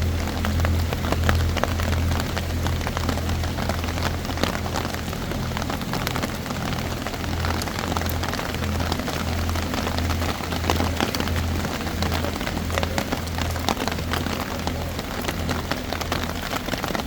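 Rain falling on an open umbrella: a steady hiss full of sharp drop hits. Under it a low hum throbs at a regular pace.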